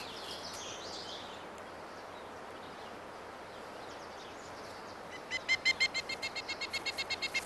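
Quiet outdoor meadow ambience with a few faint bird chirps. About five seconds in, a bird starts a rapid call, a run of evenly repeated high chirping notes about eight a second, loudest at its start.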